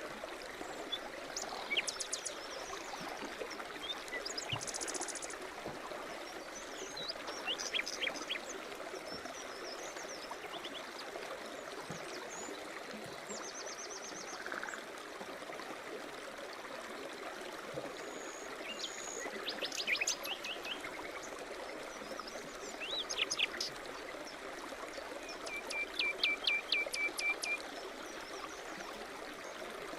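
Forest brook running steadily, with small birds singing over it: short chirps, quick trills and repeated notes come and go, with a rapid trill near the end the loudest.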